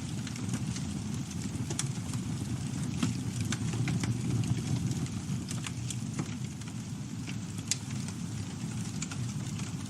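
Campfire burning: a steady low rumble of flames with scattered sharp crackles and pops from the wood.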